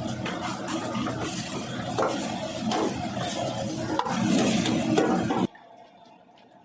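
Food being stirred and sizzling in a cooking pot: a dense noisy bed with scattered scrapes and knocks. It cuts off suddenly about five and a half seconds in, leaving faint room noise.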